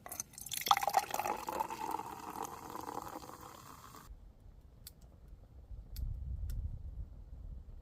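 A cocktail being poured into a cup, the filling sound running about four seconds and then cutting off suddenly. A few faint clicks and a low rumble follow.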